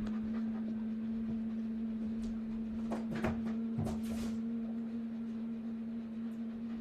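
A person humming one long, low, steady note after an out-breath, sliding up slightly at the start and held for about eight seconds. A few soft rustles or clicks fall about halfway through.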